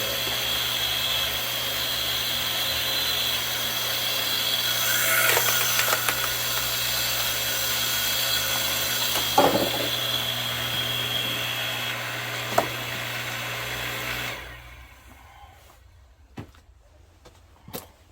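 Hydraulic log splitter's motor and pump running steadily with a high whine, with a few sharp cracks about halfway through. The machine shuts off about fourteen seconds in, followed by a few scattered knocks.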